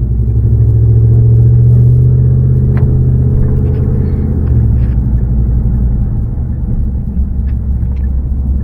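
Car engine and road noise heard from inside the cabin while driving: a steady low rumble that swells in the first seconds and eases off about four and a half seconds in.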